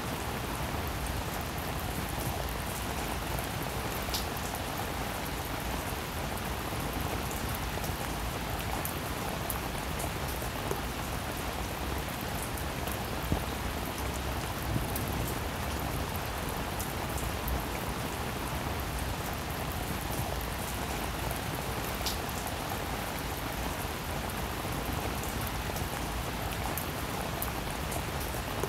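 Steady rain, a dense even patter with a few sharper single drop impacts now and then.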